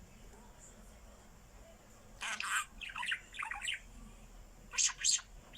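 Pet bird making cough-like sounds: a raspy cough about two seconds in, a few shorter squawky calls, then two quick sharp coughs near the end.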